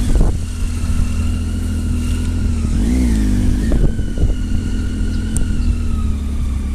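Motorcycle engine running over a heavy steady low rumble, its pitch rising and falling once about three seconds in.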